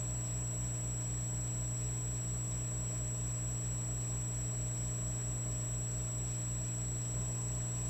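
Electric fireplace log set running with a steady electrical hum and buzz, a low throb pulsing about four times a second, and a faint high whine.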